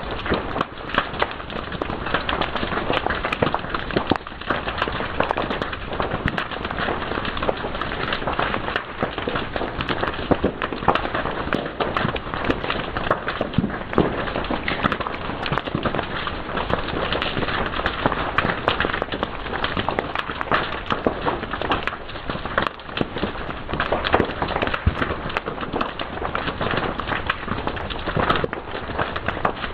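A fire crackling and popping: dense, irregular snaps, some of them sharp, over a steady hiss.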